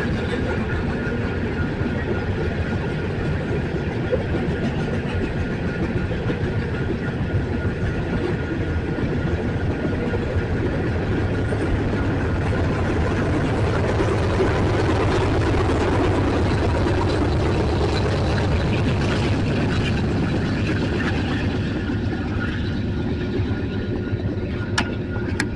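Union Pacific freight train rolling past, a steady rumble of wheels on rail with a faint steady high tone over it. It cuts off suddenly at the end.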